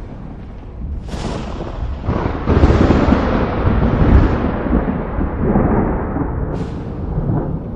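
Thunder in a thunderstorm: a sharp crack about a second in builds into a long rolling rumble, loudest in the middle and slowly dying away, with another brief crack near the end.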